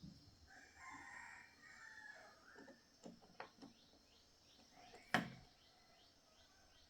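A rooster crowing once, for about two seconds. A few light clicks follow, then a single sharp knock about five seconds in, the loudest sound.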